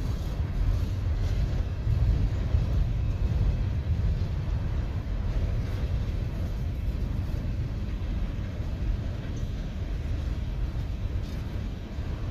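A train rolling past with a steady low rumble and a few faint knocks.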